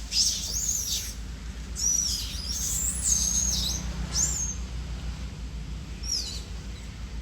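Several high-pitched squealing calls from monkeys, each arching up and falling in pitch, in four bouts: the first near the start, a longer run around two to four seconds in, a short one after four seconds and a last falling call near six seconds. A steady low hum runs underneath.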